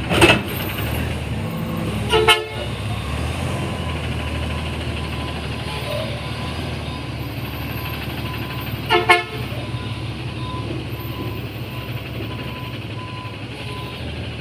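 Truck horn giving two short toots, about two seconds in and again about nine seconds in, over a garbage truck's engine running steadily; a sharp knock right at the start.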